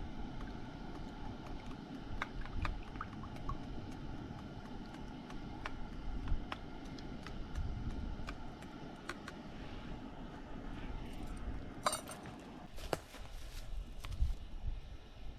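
Camp cookware being handled: scattered small clicks and crackles, then a couple of sharper metallic clinks about twelve and thirteen seconds in, over a low rumble.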